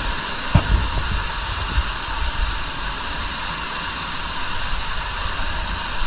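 Steady rushing noise of cave water falling after heavy rain, with a few low knocks about half a second to a second in.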